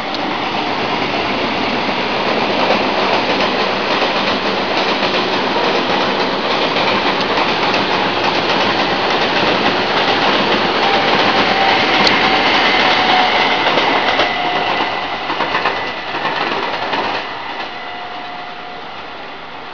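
Taiwan Railway passenger express passing at speed below, a steady rumble of wheels clattering over the rails that swells to its loudest about two-thirds through and then fades away. A thin wheel squeal sounds midway.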